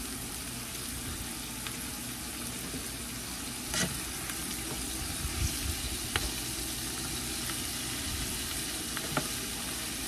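Green beans frying in bacon grease, a steady sizzle, with a few light clicks about four, six and nine seconds in.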